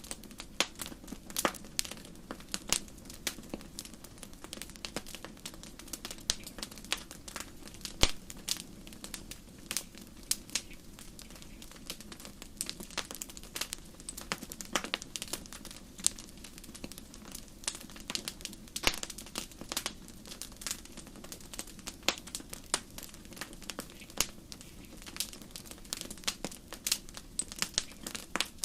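Wood campfire crackling, with irregular sharp pops and snaps over a steady low hiss of the flames. The loudest pop comes about 8 seconds in.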